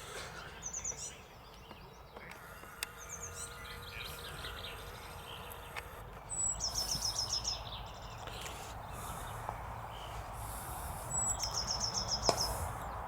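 A small bird singing high, rapid trills of short even notes, each about a second long, repeated four times over steady background noise.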